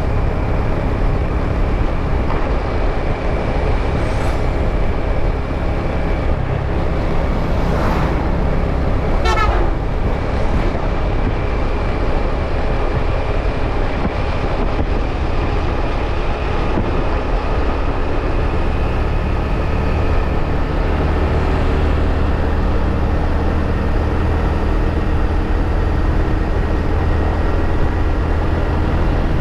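Riding a motorbike through traffic: steady engine and wind rumble on the camera microphone, with brief horn toots about eight and nine seconds in.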